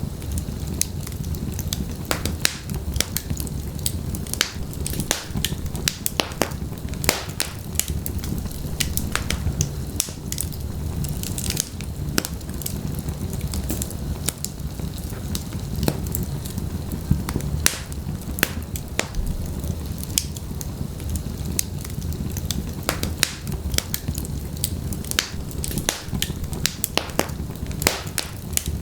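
Fire in a fireplace crackling, with many irregular sharp snaps and pops over a low, steady rumble of the flames.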